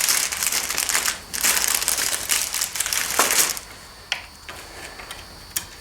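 Crinkling and rustling of packaging being handled for about three and a half seconds, then it drops away to a few light clicks.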